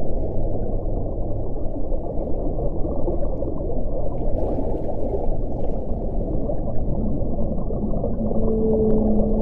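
Wind blowing hard, a dense low rushing, with a low moaning tone coming in near the end.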